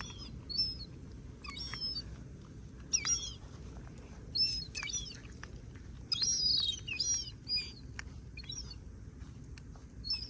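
Gull chick giving short, high peeping calls that fall in pitch, about one a second.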